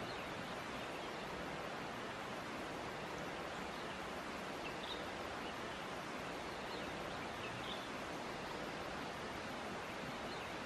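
Steady rushing of a gentle stream, with a few faint, brief bird chirps scattered through it.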